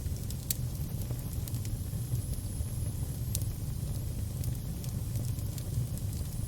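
Crackling fire: a steady low rumble of burning with scattered sharp pops and crackles.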